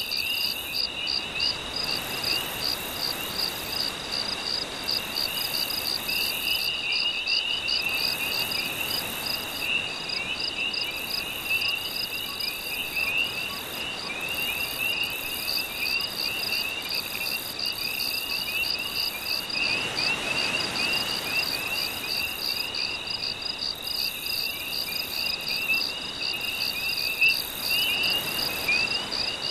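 Night chorus of crickets and other insects, steady pulsing trills with quick repeated chirps and on-and-off very high buzzing, over a soft wash of gentle waves that swells about two-thirds of the way through.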